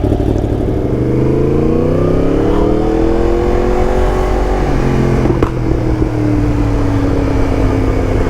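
Yamaha MT-10 crossplane inline-four running through an Akrapovic titanium exhaust just after start-up: the revs climb slowly for a few seconds, then fall back to a steady idle, with a single sharp click partway through.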